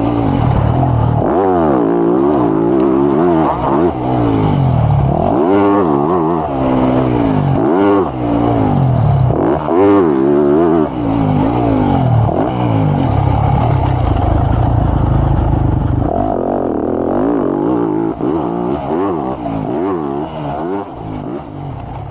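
Motocross bike engine revving hard, its pitch climbing and dropping again and again as the throttle opens and closes through the gears. After about 18 s it runs quieter and more unevenly.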